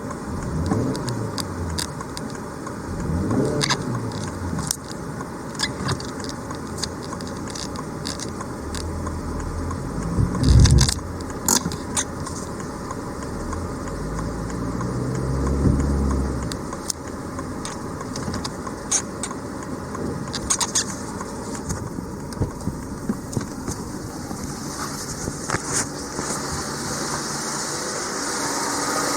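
Scattered clicks, knocks and rattles of handling on a parked car, with a few short rising and falling hums and one louder knock about ten seconds in; the engine is not yet running.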